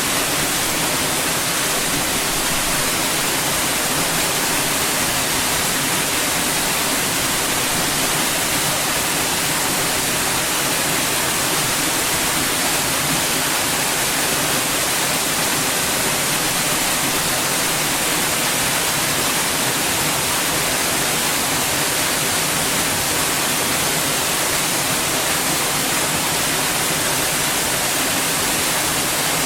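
Steady white noise: an even, unchanging hiss spread across the whole range from deep to high.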